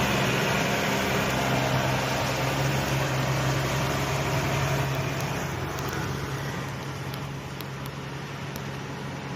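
Heavy diesel truck engine running under load, a steady drone that slowly fades away.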